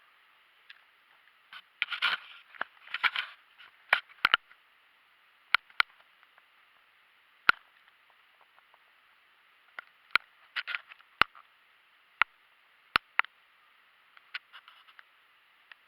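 Camera being handled: about a dozen separate sharp clicks, the loudest about halfway through, with a few brief scraping rustles in between.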